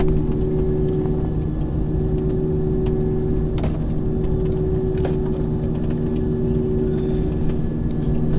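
Aircraft engines running at a steady low hum, with scattered light clicks.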